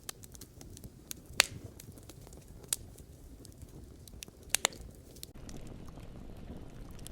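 Wood campfire burning: a low steady rush of flames with sharp crackles and pops, a few loud snaps including a quick double pop, before the popping gives way to a steadier rush of burning.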